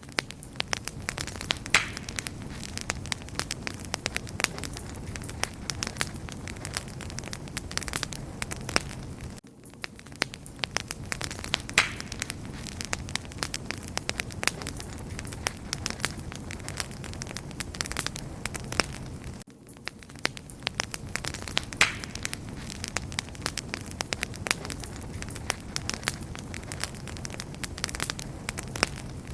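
Wood fire crackling and popping steadily: many sharp snaps over a soft low rush of flame, with a brief dip in level twice, about ten seconds apart.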